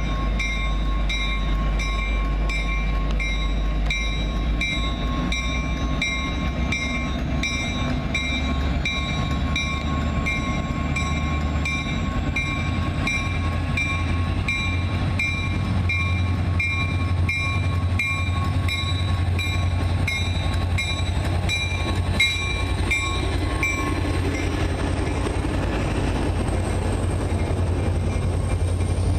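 A train's locomotive running with a steady low rumble while its bell rings in a regular beat, a little over one strike a second. The bell stops about 24 seconds in and the engine keeps running.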